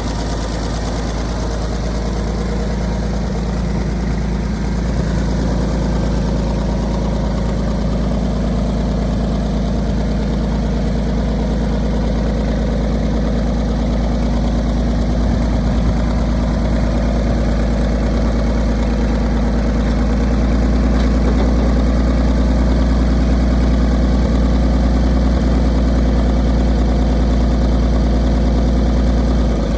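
1958 Farmall 560's gasoline four-cylinder engine idling steadily, getting slightly louder about two-thirds of the way through.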